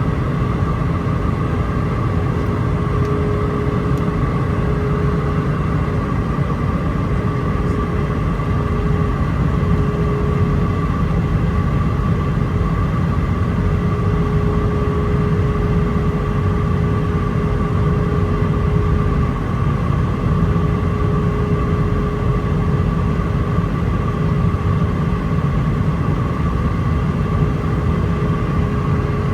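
Steady cabin roar of an Airbus A319-131 on approach, its IAE V2500 turbofans running with a constant whine over a deep airflow rumble.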